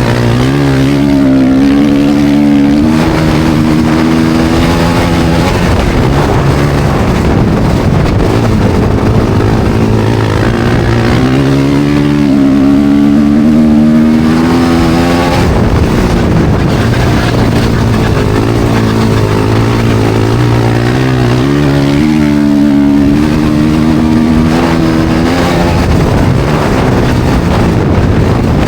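Racing motorcycles on studded ice tyres, their engines revving up and down in pitch as they accelerate through the laps. Louder swells come roughly every ten seconds as bikes come round.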